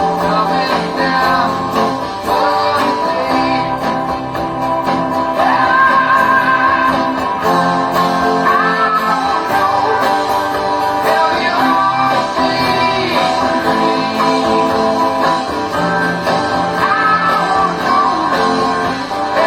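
Song played on guitar, strummed chords with a voice singing over them.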